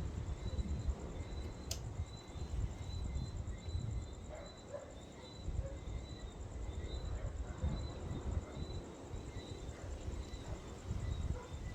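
Uneven low rumble of wind on the microphone, under a steady, high insect trill.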